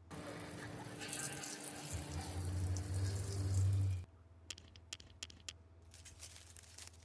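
Water running steadily, as from a tap, cutting off suddenly about four seconds in, followed by several light clicks.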